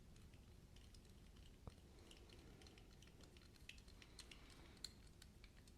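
Faint, scattered small clicks and ticks of a folding knife and small tools being handled during reassembly, with a couple of slightly sharper taps.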